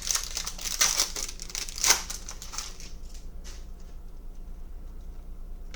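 Crinkling and rustling as trading cards and their plastic pack wrapper are handled. It comes as a dense run of crackles over the first couple of seconds, the loudest near the end of that run, then only a few scattered ticks.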